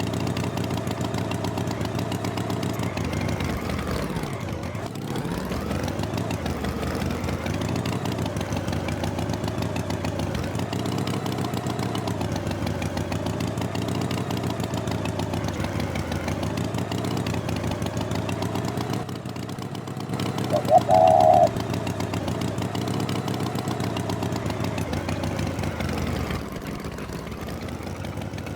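An engine running steadily, its pitch wavering slightly and swooping down and back up about four seconds in, with a short, loud high-pitched tone like a horn about twenty-one seconds in.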